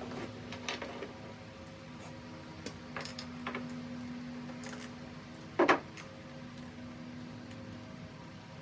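A few scattered clicks and clinks of small metal parts and tools being handled during a small-engine rebuild, with one louder knock near the middle, over a steady electrical hum.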